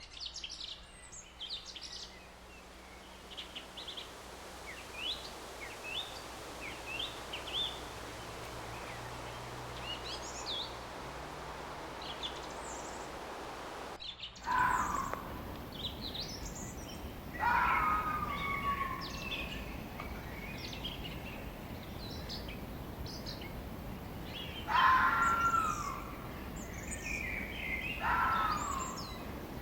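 Wild birds chirping over a steady hiss of forest ambience. About halfway through, the sound changes abruptly to louder, short calls that sweep downward in pitch, repeated every few seconds among higher chirps.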